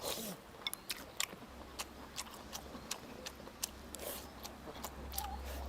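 Eating sounds: chewing, with many light, irregular clicks of tableware.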